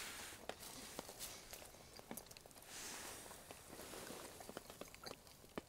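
Faint eating sounds of people chewing bagels: soft scattered clicks over a low background hiss.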